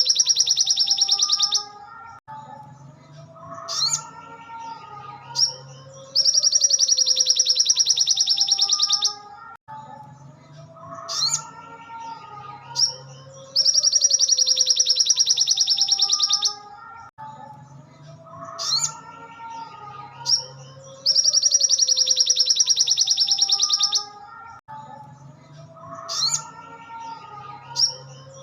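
Looped recording of a sogon songbird's training song: a loud, very rapid high trill lasting about three seconds, followed by softer, lower warbling phrases and a few sharp high chirps, the same sequence repeating about every seven and a half seconds.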